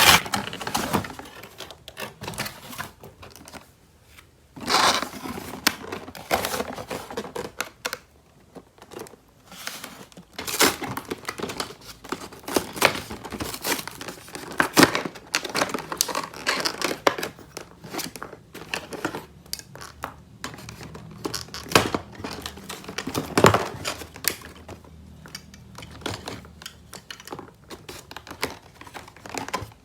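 Toy packaging being unboxed: crinkling and tearing, with irregular clicks and taps of small plastic pieces being handled, and a few louder rustles.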